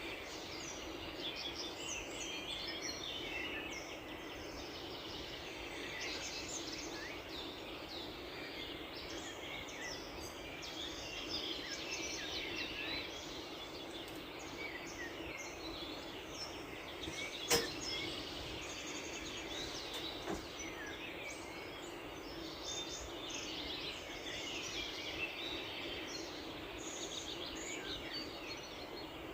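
Many small birds chirping and twittering over one another, a busy dawn chorus of short overlapping calls. A steady low hum runs underneath, and a single sharp click sounds a little past halfway.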